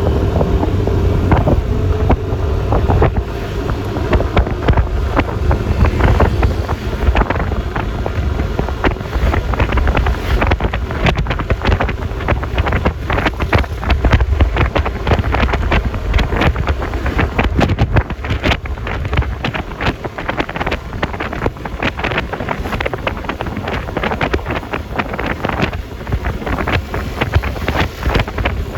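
Wind buffeting the microphone with a constant low rumble and crackle, over the engine and road noise of a Yamaha Lexi LX 155 scooter on the move.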